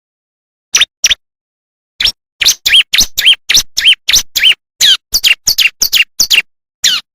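Bar-winged prinia (ciblek) song: two short chirps, then from about two seconds in a quick run of sharp notes, about three or four a second, many rising and falling in pitch, with clean silence between them.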